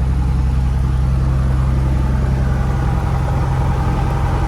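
Cessna 172F's six-cylinder Continental O-300 engine and propeller running steadily at low power, heard from inside the cockpit.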